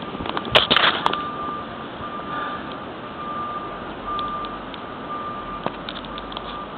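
A snow plow truck's backup alarm beeping steadily at about one beep a second as it reverses. Behind it is a constant outdoor hiss of wind and snow, with a few sharp clicks near the start.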